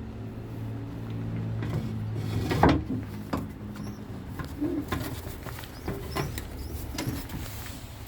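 Pigeons cooing, with a low steady hum underneath and scattered knocks, the loudest a sharp clatter about two and a half seconds in.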